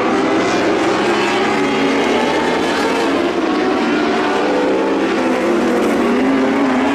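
Lightning sprint car engines running hard at racing speed on a dirt oval, a continuous loud engine note that rises and falls slightly as the throttle changes.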